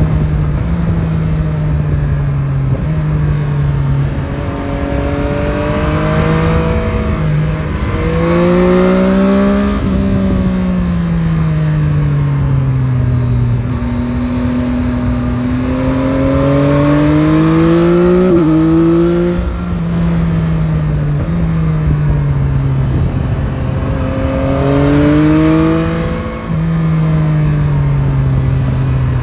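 Yamaha Tracer 9 GT's three-cylinder CP3 engine under way, its pitch rising and falling several times as the throttle is opened and closed through bends. There are quick pitch steps at gear changes, once a little past halfway and again near the end.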